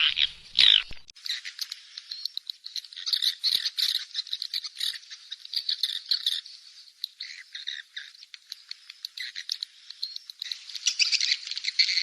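Swiftlet calls played as a lure sound for swiftlet farming: quick, high chattering twitters and clicks in a dense, overlapping run. A few louder calls come in the first second, and the chatter thickens near the end.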